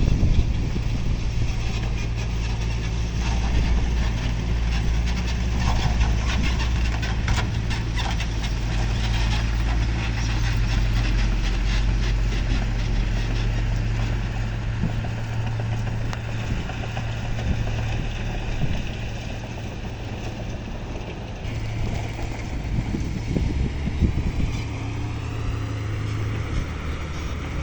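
Heavy diesel engine of earthmoving machinery running with a deep, steady drone that eases off after about fifteen seconds. A rattling clatter runs over it through the first half.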